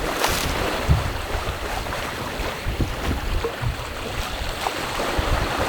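Racing sailboat under way at sea: water rushing along the hull and wind buffeting the microphone, with irregular low thuds.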